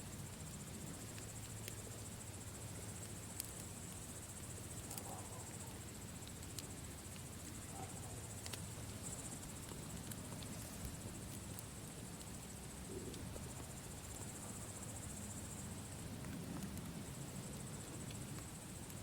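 Campfire burning with scattered sharp crackles and pops every second or few over a low steady rumble, with a steady high chirring throughout.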